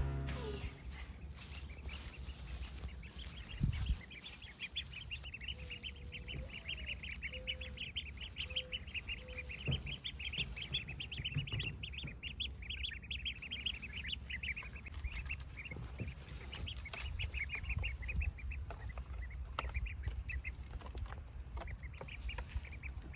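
Week-old ducklings peeping, a dense run of many short high chirps overlapping, over a low rumble, with a single thump about four seconds in.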